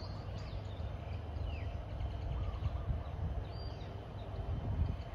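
A few faint, short, high bird chirps, one sliding downward about a second and a half in, over a steady low rumble of background noise.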